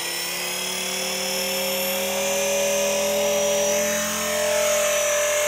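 E-flite Blade 400 electric RC helicopter's motor and rotor whining steadily, the pitch rising slightly in the first couple of seconds and then holding.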